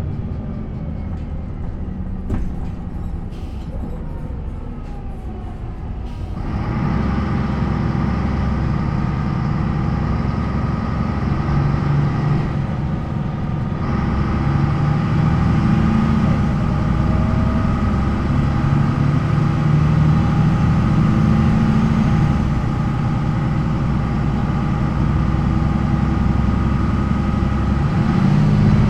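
MAN NL 263 city bus with a D28 six-cylinder diesel, running quietly at first. About six seconds in it pulls away under power, and the engine note climbs and drops back several times as the ZF Ecomat automatic gearbox shifts up.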